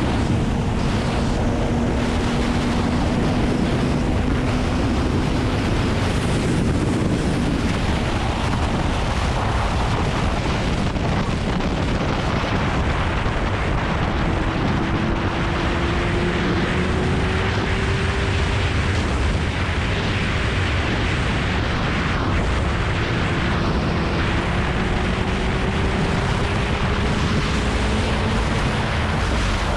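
Kawasaki Ninja ZX-9R inline-four engine running at speed under heavy wind noise on the GoPro microphone. The engine note holds steady at first, then rises twice in the second half as the bike pulls harder.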